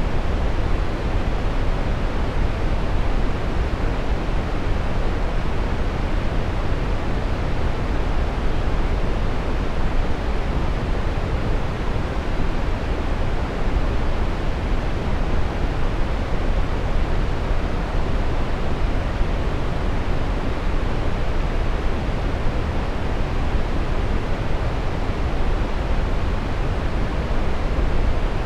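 Synthetic brown noise: a steady, even hiss-rumble, heaviest in the low end and falling off toward the highs, with no changes or events.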